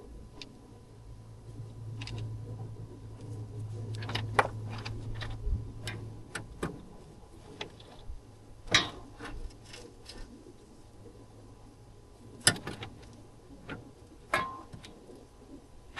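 Scattered clicks and taps with a few sharper knocks, as of small objects being handled, over a faint low hum that fades about halfway through.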